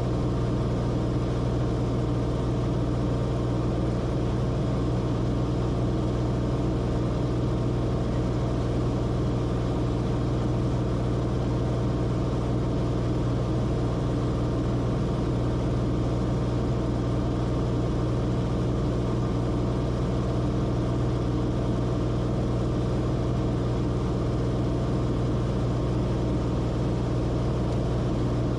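Cessna Corvalis TTX's turbocharged six-cylinder engine and propeller running at a steady drone, heard from inside the cabin, with a strong low hum and no change in power.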